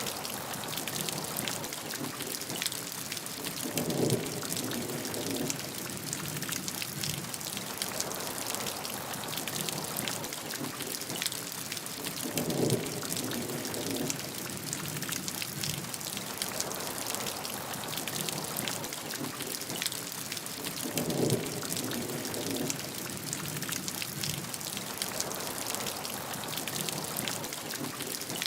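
Steady heavy rain, dense with the patter of individual drops. About every eight and a half seconds, three times, a short lower-pitched swell rises above it for a second or so.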